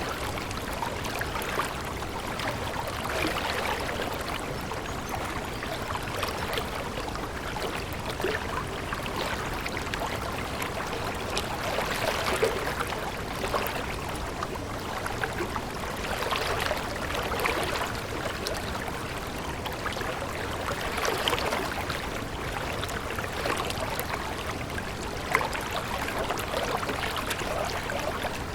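Water running and splashing in a continuous wash, swelling every four or five seconds.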